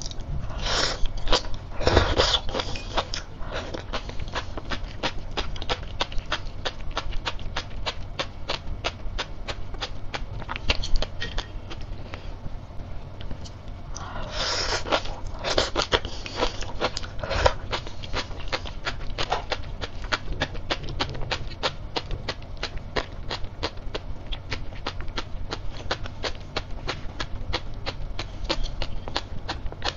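Close-up chewing of crisp sea grapes (Caulerpa seaweed), a rapid run of small popping clicks as the beads burst between the teeth. The sound is louder and busier when a fresh mouthful goes in, about a second in and again about halfway through.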